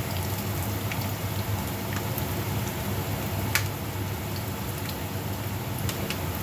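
Garlic and onion sautéing in hot oil in a pan: a steady sizzle with scattered sharp pops.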